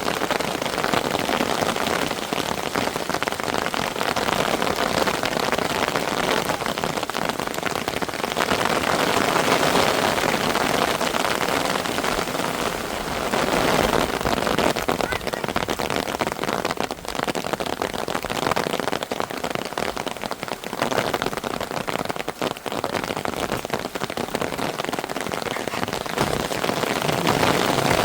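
Heavy rain falling, a dense steady patter of drops that eases a little partway through and builds again near the end.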